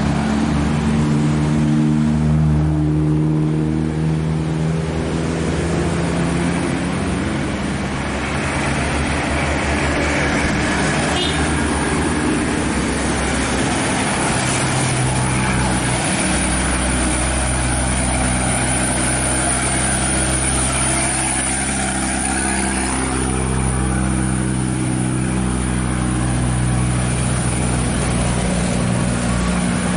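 Dump truck's diesel engine pulling hard up a steep grade at full throttle. Its pitch steps and shifts several times through the climb.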